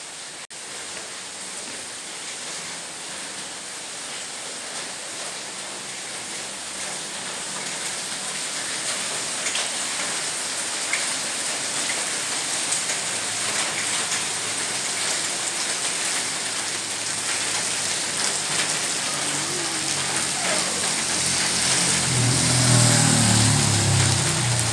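Heavy rain pouring down steadily, slowly growing louder. Near the end a low rumble rises under it, loudest about two seconds before the end.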